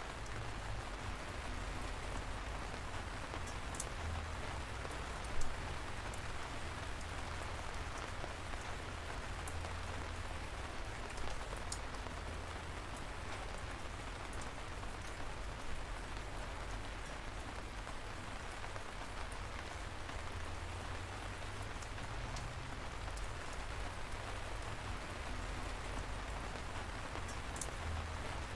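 Light rain falling steadily, an even patter over a low rumble, with a few sharper single drops landing now and then.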